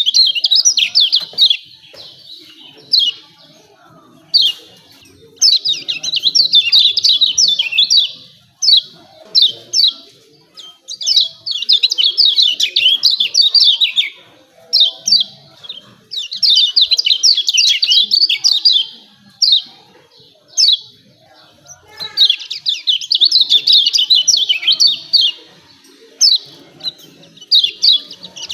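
Kecial kuning, a small yellow white-eye, giving its 'ciak ciak' call: bouts of rapid, high chattering chirps a few seconds long, with single sharp notes between the bouts.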